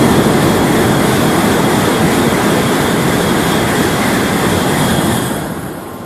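Tokaido Shinkansen bullet train passing at high speed without stopping: a loud rush of wheel and wind noise that comes up quickly, holds for about five seconds, then dies away.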